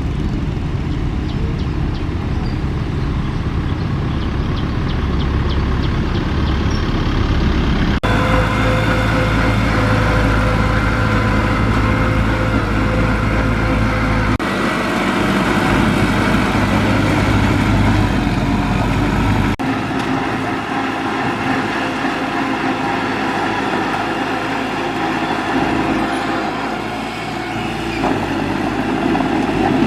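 Heavy diesel earthmoving machinery running steadily, with engine tones and rumble that change abruptly three times, about 8, 14 and 19 seconds in.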